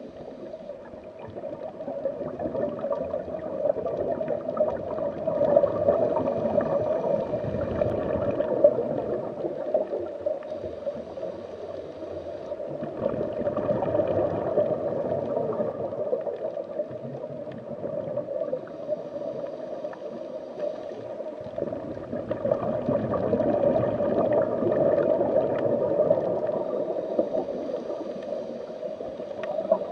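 Underwater-style water ambience: continuous bubbling and gurgling that swells and fades every several seconds.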